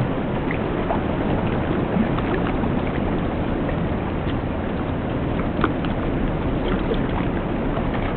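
River water rushing steadily over rocks, with a few faint ticks.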